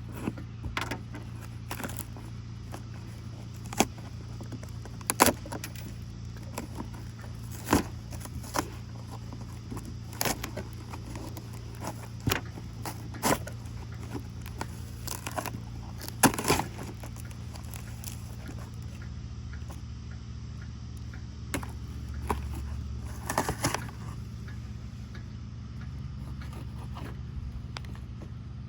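A stapled-shut package being pried and torn open: irregular sharp clicks, snaps and scrapes, scattered a few seconds apart, over a steady low hum.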